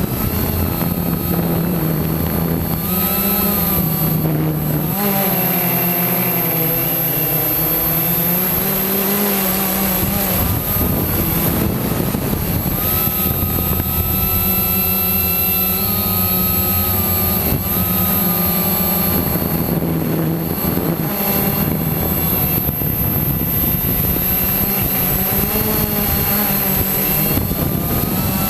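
Quanum Nova quadcopter's electric motors and propellers buzzing in flight, the pitch sliding up and down every few seconds as the throttle changes.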